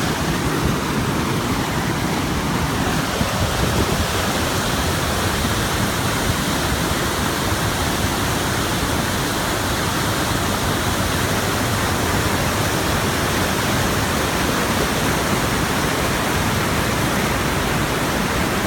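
Waterfall at high spring flow, a loud steady roar of falling and rushing water.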